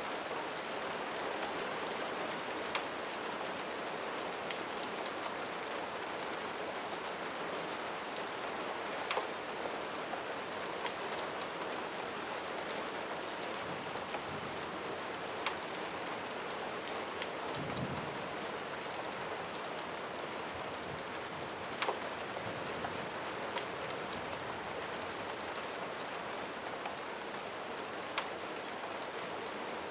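Steady rain falling, an even hiss with scattered sharp ticks throughout. A brief low rumble comes a little past the middle.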